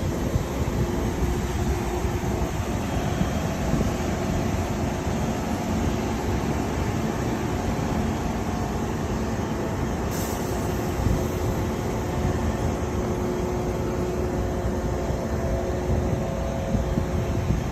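A motor running steadily under a constant rushing noise, with a faint steady hum.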